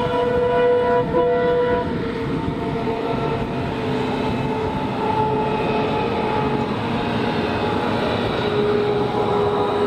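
Diesel-hauled Indian Railways express train running past: a steady rumble of wheels on track with sustained whining tones over it that slowly drift lower in pitch.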